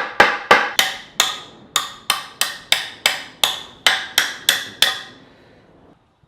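A hammer striking wood in a quick, even series of blows, about three a second, stopping about five seconds in.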